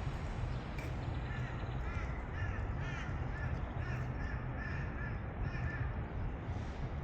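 A crow cawing: a series of short, repeated caws over a steady low rumble.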